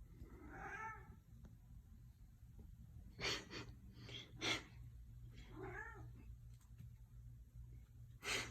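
Domestic cat meowing twice, about five seconds apart, with a few brief noises in between.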